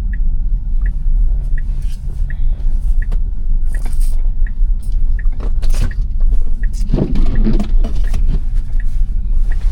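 Steady road and tyre rumble inside the cabin of a Tesla Model Y electric SUV on a snowy road, with the turn-signal indicator ticking evenly about once every 0.7 seconds. A brief muffled noise comes about seven seconds in.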